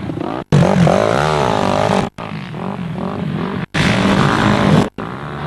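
Off-road motorcycle engine heard from the rider's helmet camera, revving up and down with throttle changes. The sound cuts out completely for a split second four times.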